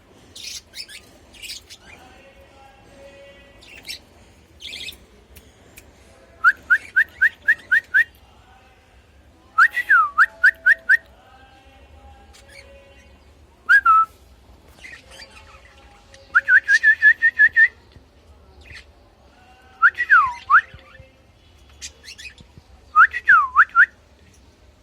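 Caged budgerigars chirping and whistling. Their calls come in quick runs of short rising chirps several times, with a few longer swooping whistles near the end, over scattered short high chatter.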